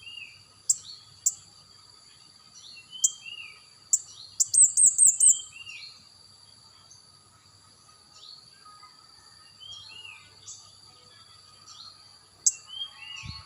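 A songbird singing: sharp high chirps and short falling whistles, with a quick run of rapid notes about five seconds in, over a steady high-pitched hum.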